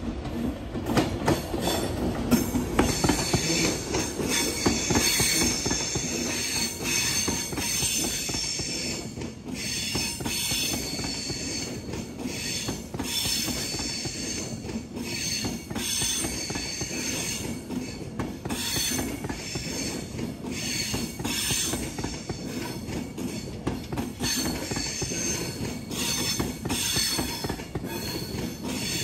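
A train's wheels running on the rails, clicking repeatedly over joints and points, with wheels squealing on and off and a steady low rumble underneath.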